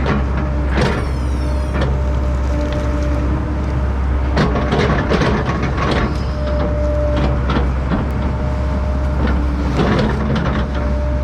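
Heavy diesel equipment running steadily, with a constant low drone and frequent short, sharp cracks and knocks over it.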